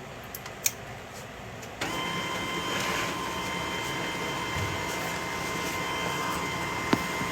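HP printer mechanism: after a sharp click, its motor starts about two seconds in and runs with a steady whine, with another click near the end.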